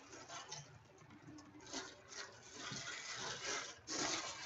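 Trading cards being handled and slid against one another, a faint, irregular rustling that swells a little near the end.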